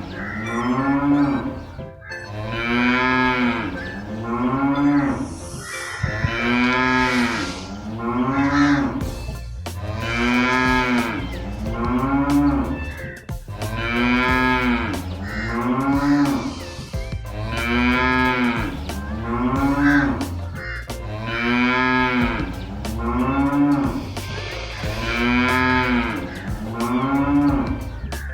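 Cow mooing, looped so that the same long moo repeats about every two seconds, over a steady low bass with clicking from about nine seconds in.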